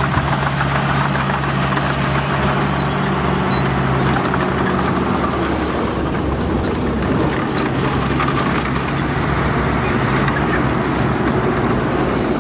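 Heavy earthmoving machine's diesel engine running steadily, with a low steady engine tone under a loud mechanical clatter.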